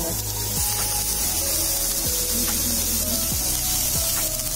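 Sugar-sprinkled pineapple slices frying in ghee on a hot tawa: a steady sizzle, with background music under it.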